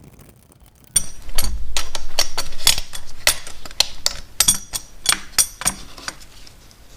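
Irregular sharp metallic clicks and clinks, several a second, from hand tools and metal parts being worked on a motorcycle engine. They start suddenly about a second in and die away near the end.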